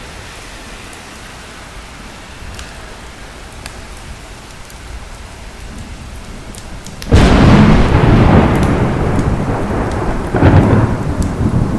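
Steady rain, then a sudden loud thunderclap about seven seconds in that keeps rumbling, swelling again near the end.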